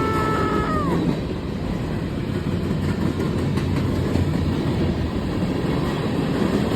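A train passing close by: its horn chord, falling in pitch, cuts off about a second in, then the steady rumble and rattle of the rail cars rolling past.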